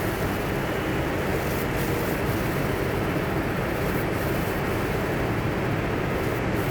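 Travel trailer's electric power awning motor running steadily as the awning extends.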